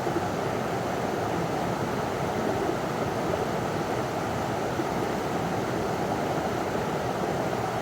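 River water pouring over a small waterfall: a steady, full rushing sound with no breaks.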